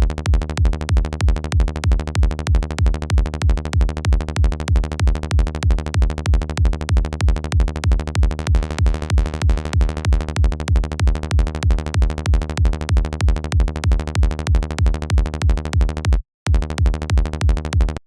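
Electronic kick drum and synth bass loop, made with the Kick 2 and Sylenth plugins, playing a steady four-on-the-floor pulse of about two kicks a second with the bass sounding between them. It cuts out briefly near the end, comes back, then stops.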